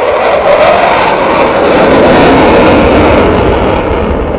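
Jet aircraft passing low: a loud, noisy roar that builds, peaks about two seconds in, then begins to fade.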